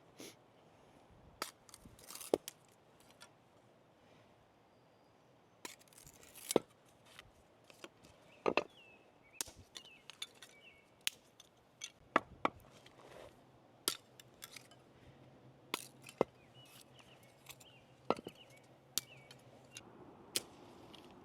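Sharp knocks and cracks at irregular intervals, some in quick pairs or clusters, a few much louder than the rest, typical of cooking prep or a wood fire.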